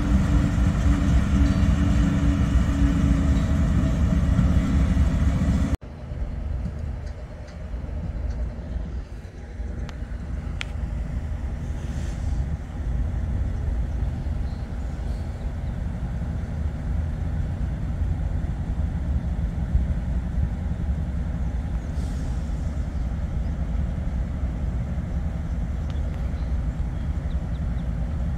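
Diesel locomotives of a CSX freight train running past with a loud, steady engine drone. About six seconds in, the sound cuts off abruptly and gives way to a quieter, steady low rumble of the train rolling by.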